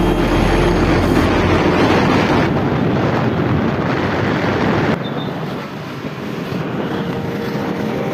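Wind rushing over the microphone with the noise of a moving vehicle, dipping about five seconds in and building again.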